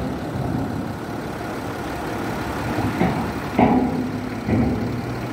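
Motor vehicle engines idling with a steady low rumble, and two short louder sounds near the end.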